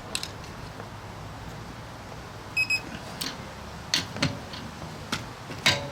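Digital torque wrench tightening a wheel's lug nut, giving two quick high beeps about two and a half seconds in as it reaches its first warning point short of the 115 ft-lb setting. Sharp clicks and knocks of the wrench and socket come at irregular intervals, the loudest near the end.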